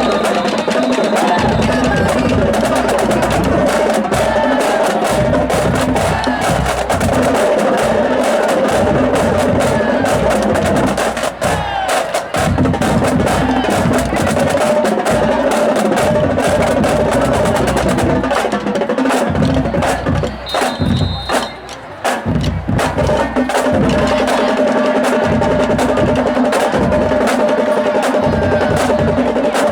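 High school band playing loudly, pitched wind parts over drums and percussion, with two short breaks in the playing, about twelve and twenty-one seconds in.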